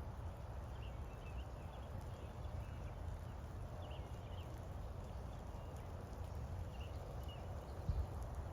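Steady rain with a low wind rumble on the microphone. Faint short high chirps come every second or two, and one dull thump lands near the end.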